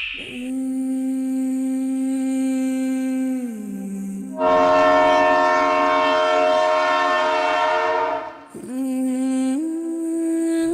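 Long horn blasts. A held tone drops in pitch about three and a half seconds in, then a louder, fuller chord sounds for about four seconds, then a shorter blast steps up in pitch.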